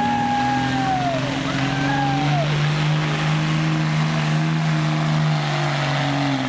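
Diesel truck engine running hard under load in a truck pull, its pitch stepping up a little over two seconds in and then held steady. High drawn-out tones rise and fall over it in the first couple of seconds.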